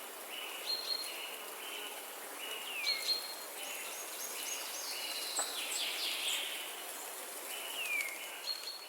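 Songbirds singing: a short note repeated about twice a second, with a few falling whistles and high chirps, over a steady background hiss.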